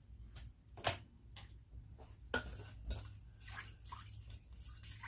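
A spoon stirring a thin liquid sauce in a crock pot, clinking against the pot at irregular intervals, with light sloshing of the liquid.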